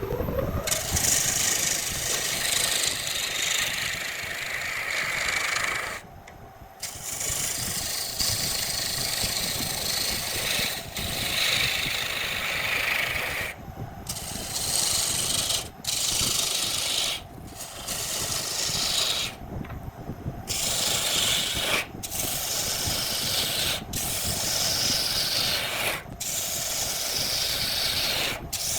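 Turning tool cutting wood on a spinning lathe, a steady scraping hiss in repeated passes. The tool lifts off briefly about nine times, with the passes shortening to about two seconds each in the second half.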